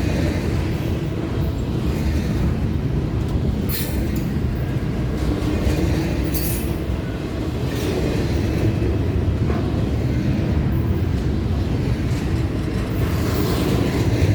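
CSX intermodal freight train's cars rolling past, a steady loud rumble of wheels on rail, with a few brief sharp high-pitched sounds about four and six seconds in and near the end.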